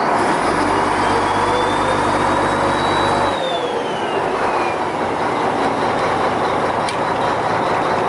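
Fishing boat's engine running steadily. A deeper hum joins about half a second in and cuts off suddenly after about three seconds. A thin whine rises and then falls away.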